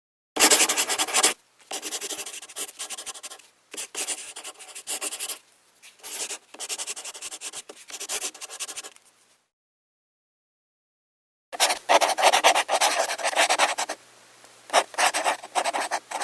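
Computer keyboard being typed on: rapid flurries of key clicks in bursts, with short pauses and a silent gap of about two seconds past the middle. The loudest, fastest typing comes right at the start and again after the gap.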